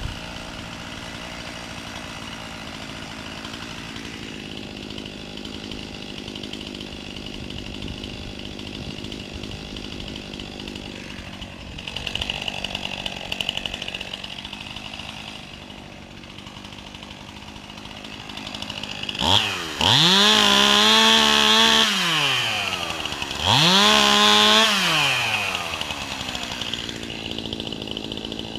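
Two-stroke chainsaw idling, then revved to full throttle twice near the end, each time held for a second or two before dropping back to idle.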